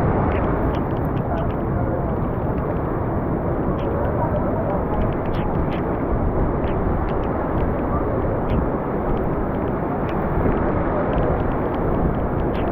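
Dam floodwater pouring through open spillway gates: a loud, steady rush of water, with faint small splashes ticking through it.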